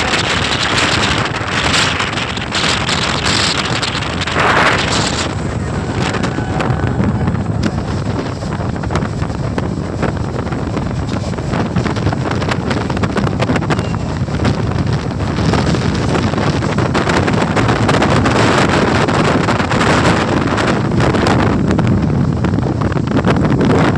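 Wind buffeting the microphone over the steady rumble of a moving train, gusting harder in the first few seconds.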